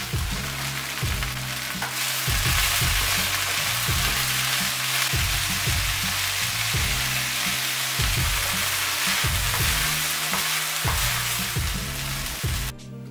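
Sliced leeks sizzling in hot oil in a frying pan, the sizzle growing louder about two seconds in after frozen peas are tipped in. Background music with a steady beat plays underneath, and the sizzle cuts off just before the end.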